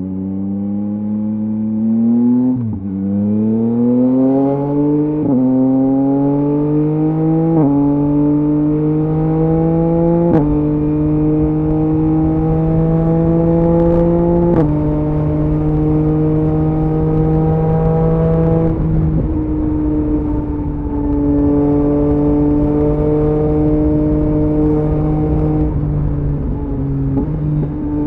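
2023 Yamaha MT-09's 890 cc inline three-cylinder engine through a LeoVince LV Race exhaust, accelerating hard with quickshifter upshifts. The pitch climbs and drops sharply about five times in the first fifteen seconds, then holds at a nearly steady cruise.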